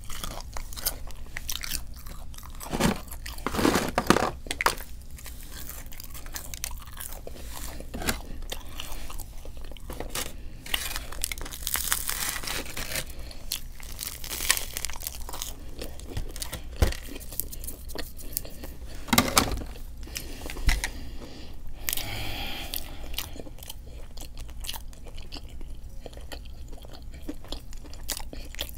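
A person eating close to the microphone: wet chewing with crunchy bites and small mouth clicks, louder bites a few seconds in and again about two-thirds of the way through.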